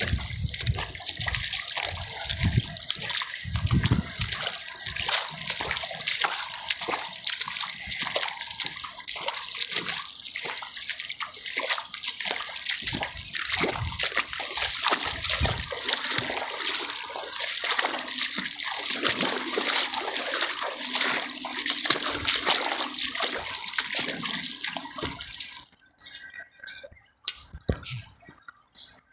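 River water rushing and splashing in a steady hiss, with a few low thuds in the first seconds. It drops away about three seconds before the end, leaving quieter scattered clicks.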